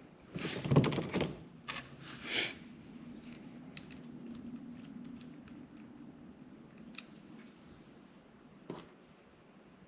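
Hand tools and small metal terminals handled while crimping terminals onto short lengths of 12-gauge wire: a cluster of clicks and rustles in the first couple of seconds, then a few isolated clicks.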